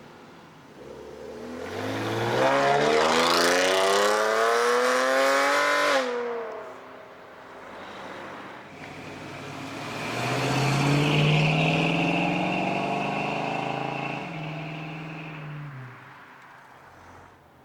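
A car leaving under hard acceleration: the engine revs climb steadily for about five seconds, then cut off sharply as the driver lifts. A few seconds later a steadier engine note swells, passes and fades away near the end.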